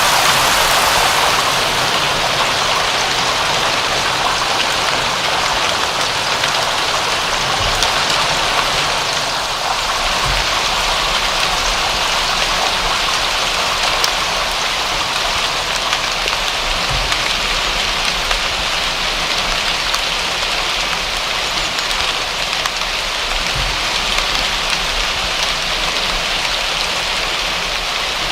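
Steady rain falling on surfaces, an even hiss of many fine drops without a pause.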